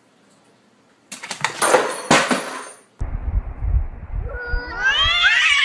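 A noisy rasping burst of about two seconds that stops abruptly. Then a cat's long meow, rising and then falling in pitch, over low rumbling noise near the end.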